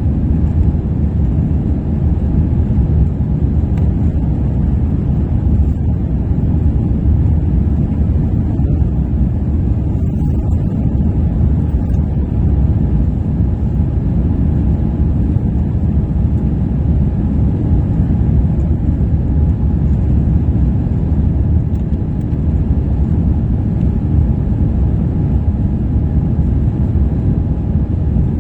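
Airbus A350's Rolls-Royce Trent XWB engines and airflow during takeoff, heard as a steady, unchanging low roar.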